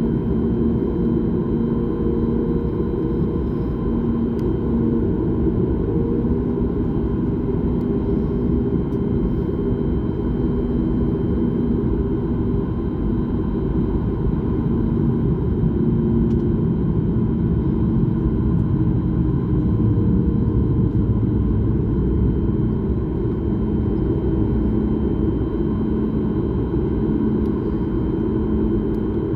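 Airliner cabin noise: the steady, heavy roar of jet engines and airflow, with a held hum and a faint high whine over it.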